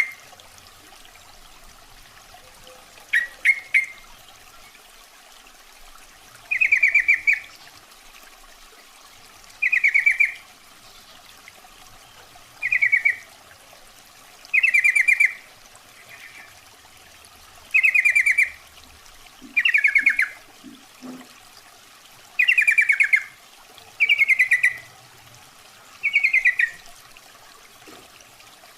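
Sooty-headed bulbul giving short calls, each a quick run of notes, repeated every two to three seconds. This is the female's call, used as a lure to draw males.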